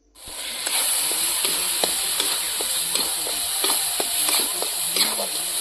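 Ground ginger-garlic-mustard paste sizzling in hot oil in an iron kadhai, with a steady hiss. A metal spatula stirs and scrapes it, giving irregular clicks and knocks against the pan. The masala is at the frying (bhuna) stage.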